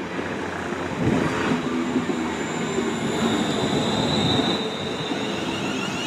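London Northwestern Railway electric multiple unit running into the platform, with steady wheel-and-motor noise. A thin, high brake squeal comes in about three seconds in as it slows.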